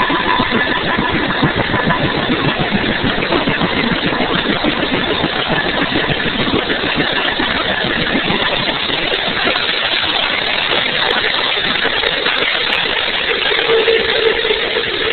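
Bell 205 helicopter running, its single turboshaft engine and main rotor making a loud, steady, dense noise. A high whine fades out within the first second, and a lower steady tone comes in near the end.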